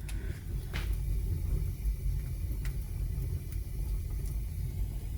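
Firewood burning, giving a few scattered sharp crackles and pops over a steady low rumble.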